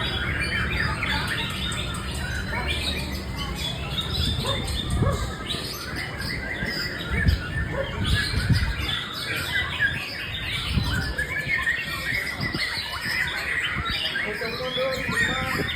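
White-rumped shama (murai batu) singing a continuous run of varied chirping phrases. A few dull low thumps come through the middle of the song.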